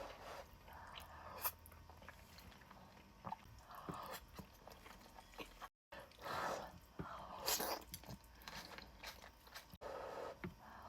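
Close-miked eating sounds: irregular chewing and biting of buldak spicy noodles, with a brief dropout of all sound about six seconds in.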